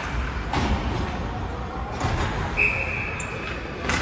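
Ice hockey game sounds in an arena: a few sharp knocks of stick, puck or boards, and about two and a half seconds in a single short, steady, high whistle blast.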